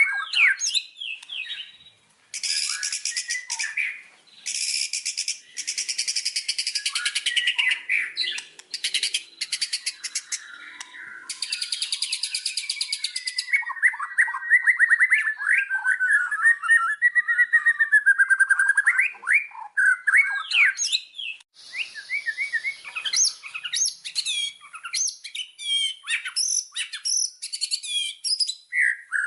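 White-rumped shama (murai batu) singing a long, varied song: clear whistled phrases broken by rapid, harsh rattling trills and bursts of fast chattering notes.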